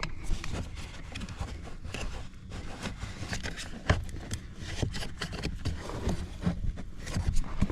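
Scattered knocks and scrapes of hands and tools working at plastic trim and parts under a truck's dashboard while trying to pull out the heater blower motor, with a sharper knock about four seconds in.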